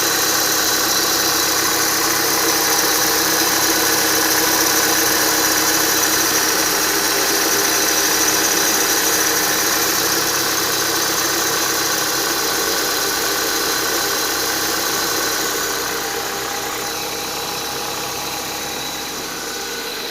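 Renault Duster engine running with a steady high whistle from the accessory drive belt, which eases off slightly near the end. The whistle is still there with a new upper idler pulley; the lower pulley and the belt are the original ones.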